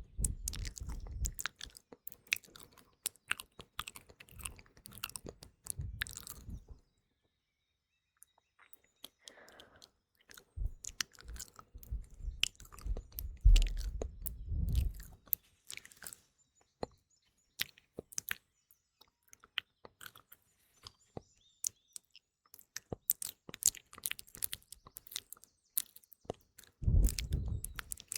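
Close-miked ASMR mouth sounds: rapid wet clicks and lip smacks, with a short pause about seven seconds in and sparser clicks in the middle stretch.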